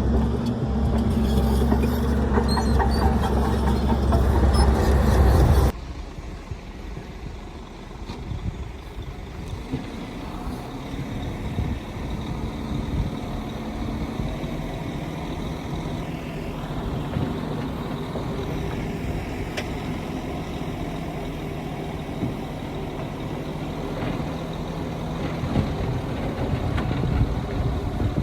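Heavy diesel engines of earthmoving machines running: a loud engine for the first six seconds or so, then an abrupt change to a quieter, steady engine sound.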